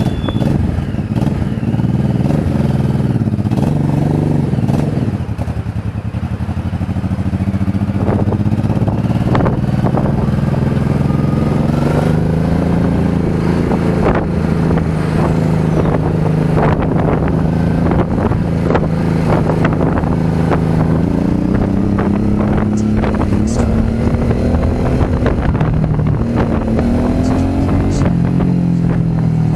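Motorcycle engine running under way, recorded by a bike-mounted dashcam; its pitch climbs and falls several times with changes in speed.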